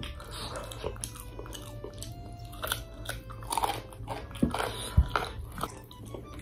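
Close-up chewing, biting and crunching as chicken is eaten off the bone by hand, with irregular sharp crunches, the loudest about five seconds in.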